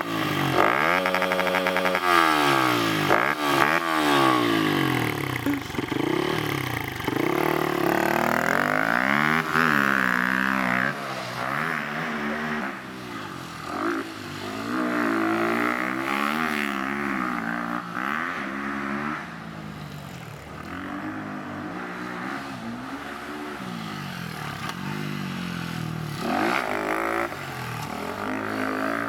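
Dirt bike engine revving up and down over and over, louder in the first half.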